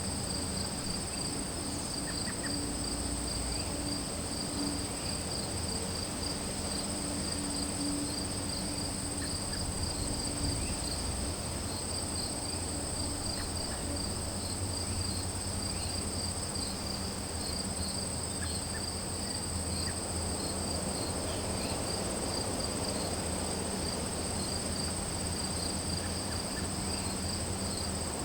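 A steady chorus of crickets and other insects: one continuous high trill and a slightly lower, rapidly pulsing one, with a faint low hum underneath.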